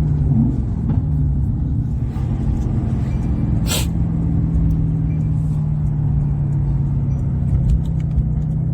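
Mercedes-AMG GT R's M178 4.0-litre twin-turbo V8 running steadily at an unchanging, idle-like speed with a deep rumble. A single sharp click is heard a little before the middle.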